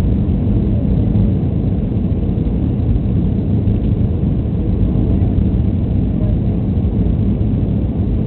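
Steady low rumble inside the cabin of a Boeing 737-300 in flight: engine and airflow noise, even throughout.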